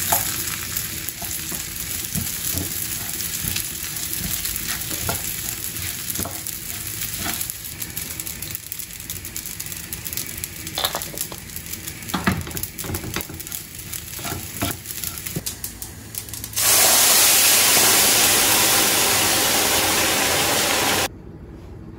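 Food frying in a pan: a steady sizzle with scattered clicks of a utensil stirring. Near the end a much louder, even hiss starts suddenly and cuts off sharply just before the end.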